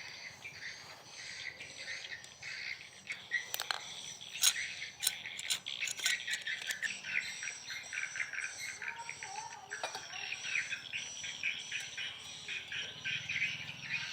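Birds chirping against a steady high insect drone, with a run of sharp clicks from about four to seven seconds in and one more near ten seconds.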